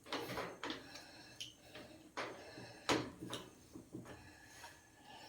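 A handful of sharp, irregular knocks and clatters over a few seconds, the loudest about three seconds in.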